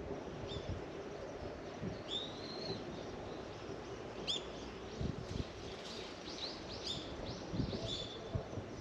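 A small bird calling: one drawn-out high note, then a run of short, quick chirps, over a steady low background noise.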